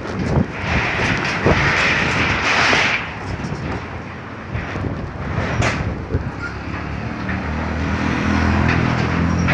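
Strong windstorm gusts buffeting the microphone, loudest over the first few seconds. From about two-thirds of the way in, a motor vehicle engine runs steadily underneath the wind.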